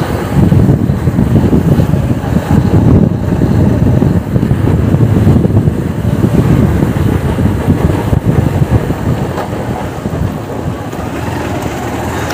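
Honda Unicorn motorcycle's single-cylinder engine running on the move, with wind on the microphone. The engine carries an abnormal noise that comes loudest when in gear and running, which the mechanic suspects is a broken clutch bearing or a broken bearing inside the engine.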